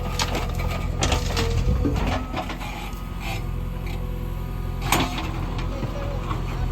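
Diesel engine of a JCB 3DX backhoe loader running steadily while it loads soil, with scraping and knocks from the bucket and one sharp clank about five seconds in.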